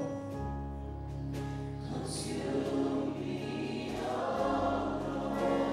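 Gospel worship music played softly: a choir singing quietly over sustained chords.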